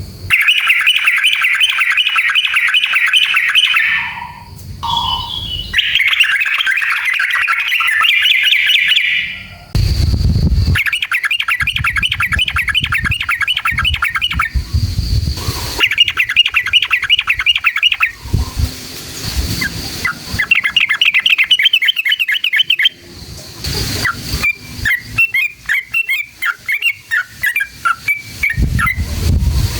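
Yellow-vented bulbul (trucukan) singing long, rapid rolling phrases of quick repeated notes in bouts of a few seconds with short breaks. Near the end the song turns to looser, separate chirps, with a low rumble underneath.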